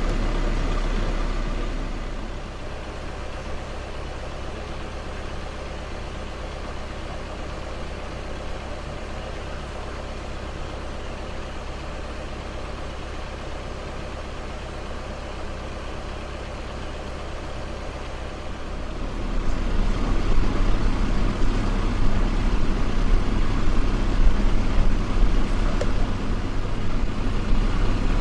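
Road traffic and vehicle engines running steadily, growing noticeably louder about two-thirds of the way through.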